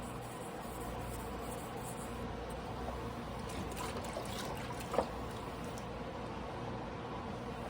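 Soft wet scraping of a carbon-steel knife blade on a water-soaked whetstone during hand sharpening, with a single sharp click about five seconds in.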